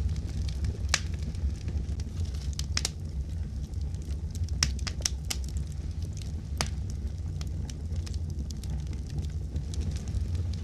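Wood fire crackling: a steady low rumble of flames with sharp, irregular pops and snaps.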